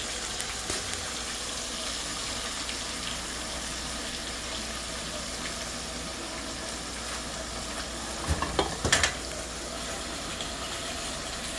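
Steady sizzling of flour and cube steak bits frying in a pan for gravy, with a few sharp knocks about eight to nine seconds in.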